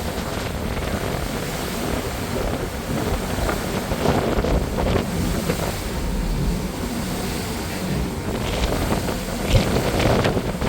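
Wind buffeting the microphone aboard a moving boat, over a steady rush of water and low rumble.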